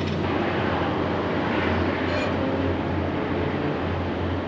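Rocky Mountaineer passenger train running along the track: a steady low hum under an even spread of running noise.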